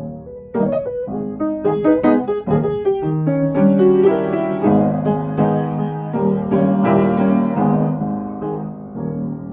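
Background piano music: a run of quick notes that builds into fuller, sustained chords.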